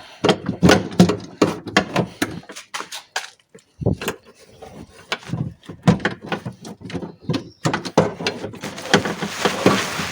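Scissor-type window regulator being worked out through a car door's inner opening: a string of irregular metal clanks and knocks, with a denser scraping rattle near the end.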